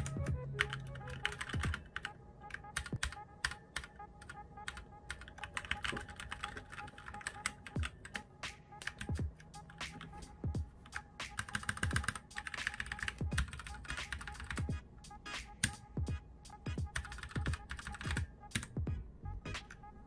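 Key presses on a Huo Ji E-Element Z-88 mechanical keyboard with Otemu red switches: sharp clacks in short, irregular runs with pauses between them.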